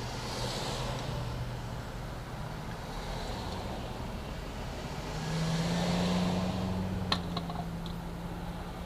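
A vehicle engine running steadily amid road traffic. A louder vehicle comes up and goes by about five seconds in, and a few sharp clicks follow at about seven seconds.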